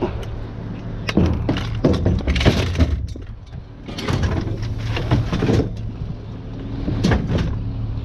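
Scrap being handled and thrown, with a run of irregular crashes and clattering impacts over a steady low hum.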